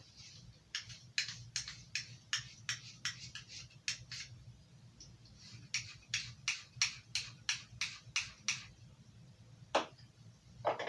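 Carving knife blade stroked across an Arkansas sharpening stone: two runs of about ten quick scraping strokes, roughly three a second, with a short pause between. A single knock near the end.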